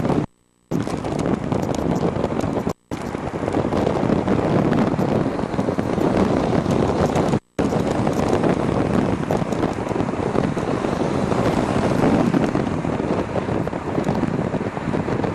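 Wind buffeting the camera microphone as the e-bike rides into a strong headwind: a steady, heavy rush that cuts out to silence briefly three times.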